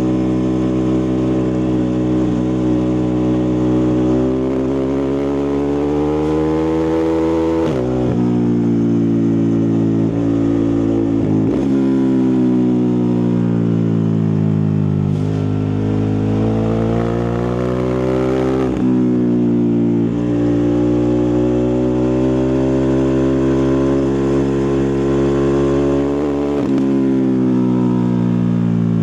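Ducati Multistrada 1260 Pikes Peak's Testastretta V-twin engine and exhaust, its note slowly rising and falling with the throttle, with a brief break about four times, as at gear changes.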